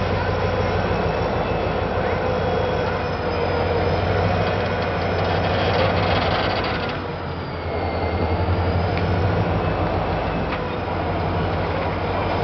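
Nickel Plate Road 757, a Berkshire steam locomotive, and its tender rolling slowly on the rails while being pushed without steam: a steady low rumble of steel wheels and running gear, with faint high wheel squeals around the middle.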